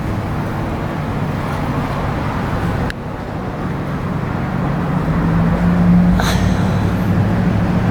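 Steady road traffic noise, with a vehicle's low engine hum growing louder about five seconds in.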